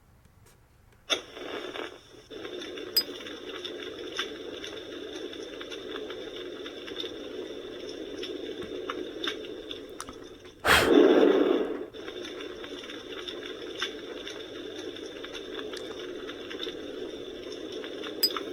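Recorded campfire crackle from the FireWood Home toy's small speaker: a steady hiss of burning with scattered sharp pops. The sound starts about a second in, and there is a louder burst of about a second near the middle.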